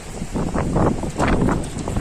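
Sandstorm wind gusting hard against the microphone in rapid, uneven blasts.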